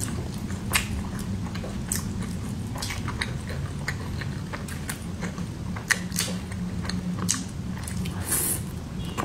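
Close-miked chewing and mouth sounds of a person eating pan-fried pork buns (shengjian bao), with scattered short wet smacks and clicks, and a bite into a bun near the end.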